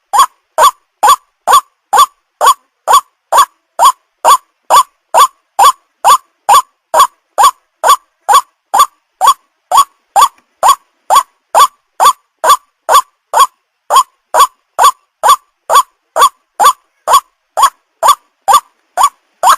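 White-breasted waterhen (ruak-ruak) call played as a lure recording: one short, identical note repeated evenly about twice a second, without a break.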